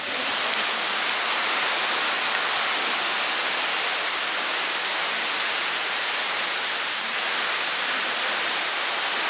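Rushing water from a river or waterfall: a steady, loud hiss.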